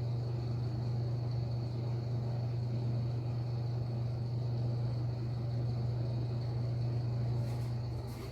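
1997 LG Industrial Systems MGS elevator running: a steady low hum from the car and its drive, with a faint high whine over it. Near the end a few faint clicks come in and the hum changes.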